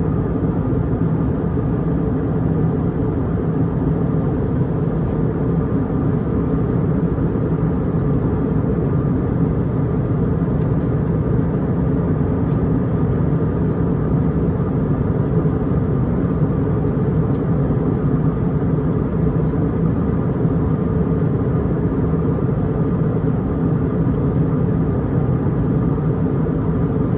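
Airbus A320 cabin noise in cruise flight: a steady, unbroken drone of engines and rushing air, with a few constant hum tones.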